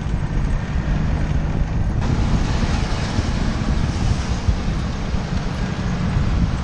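Motor scooter on the move: wind buffeting the microphone over a steady low rumble from the engine and the road.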